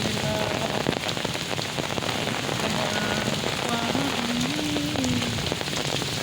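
Heavy monsoon rain falling steadily, drops pattering on the ground and surfaces.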